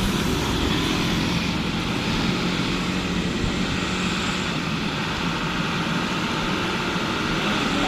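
Heavy truck engine running steadily, with a low hum under broad road noise.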